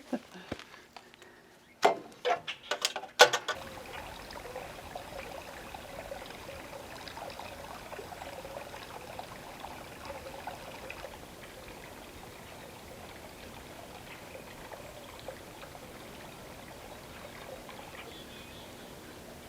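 A few sharp knocks in the first three seconds, then the steady sound of running water, like a trickling stream.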